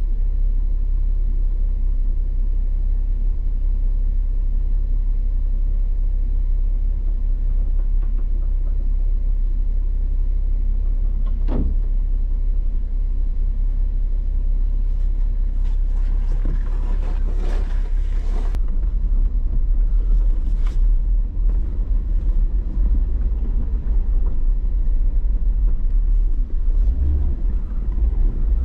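Steady low rumble of a vehicle driving, with a single sharp knock about eleven seconds in and a couple of seconds of louder rattling noise past the halfway point.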